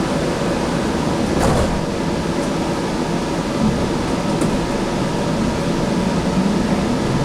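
Steady interior noise of a Sound Transit Link light rail car, an even rush of running and ventilation noise, with a brief sharp sound about a second and a half in.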